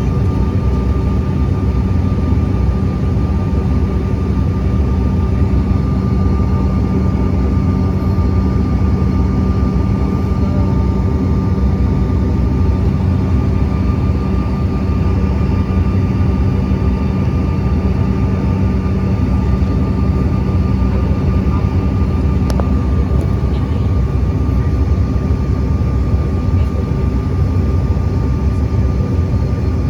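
Steady jet engine and airflow noise heard inside the cabin of an American Eagle regional jet: a loud, even rumble with a constant whine over it, and a low hum that fades about two-thirds of the way through.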